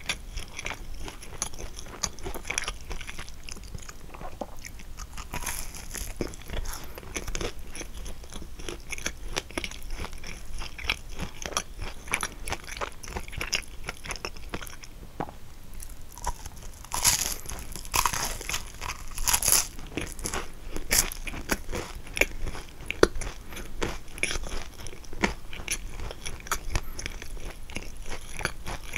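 Close-miked chewing and crunching of a kouign-amann, its crisp caramelized sugar crust crackling between the teeth. There is a louder run of crunches a little past the middle.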